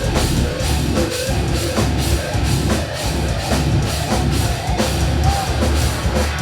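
Live heavy metal band playing at full volume: distorted guitars over a driving drum kit with a pounding bass drum.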